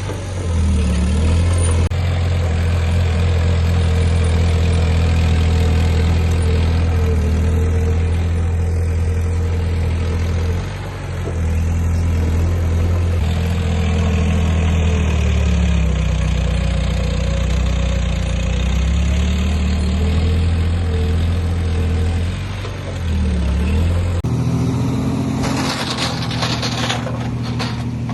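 Heavy diesel engine of an earthmoving machine running under load, its pitch dipping and recovering several times. Near the end the engine drone falls back and a run of cracking, crunching noises takes over.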